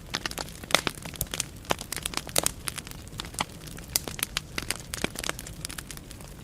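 Burning firewood crackling in a fireplace: irregular sharp pops and snaps, several a second, over a low steady rumble of flame.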